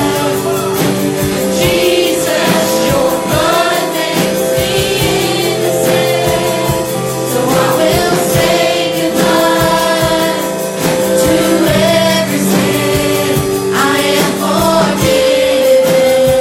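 Group singing of a gospel hymn with instrumental accompaniment, voices holding long sustained notes.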